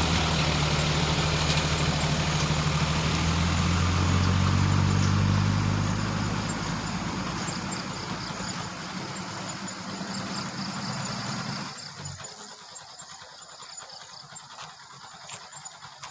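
A vehicle engine running with a low, steady hum. It weakens after about five seconds and stops abruptly about twelve seconds in. Faint high-pitched chirping continues underneath and is all that remains afterwards.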